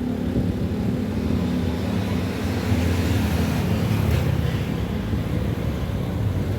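A vehicle engine running steadily, with a wider rush of noise that swells and fades around the middle.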